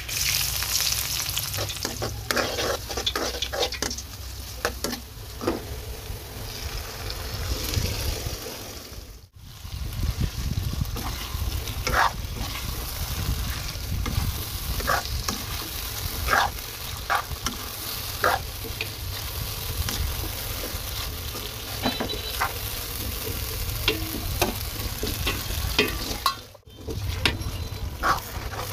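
Sliced onion and then chicken pieces in masala frying in hot oil in a pan, sizzling steadily while a metal spoon stirs them, with sharp clinks and scrapes of the spoon against the pan. The sound drops out briefly twice.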